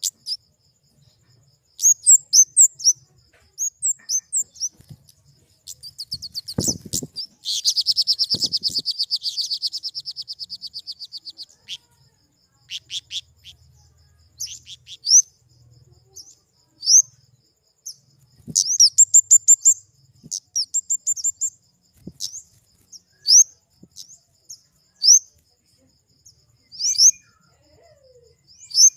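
Flowerpecker (kemade) calling: short, sharp, high-pitched chips in quick runs, with a rapid trill of about four seconds near the first third. A couple of dull low thumps fall around the start of the trill.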